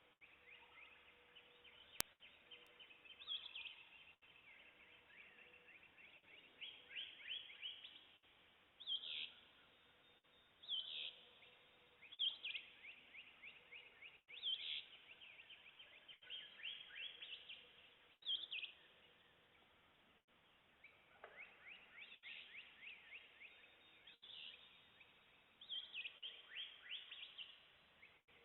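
Faint dawn birdsong in woodland: several songbirds repeating short phrases of quick down-slurred notes and chirps, with a single sharp click about two seconds in.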